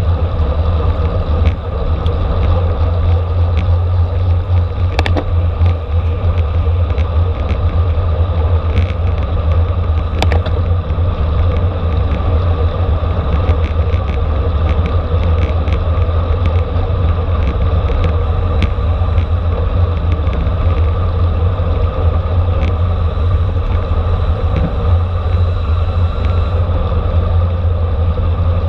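Steady, loud low rumble of wind and road noise from a racing bicycle moving at speed, with faint ticks here and there.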